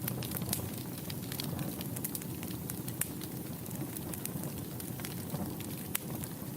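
Wood fire burning in a fireplace: a steady low rumble of flames under frequent sharp crackles and pops, with louder pops about three and six seconds in.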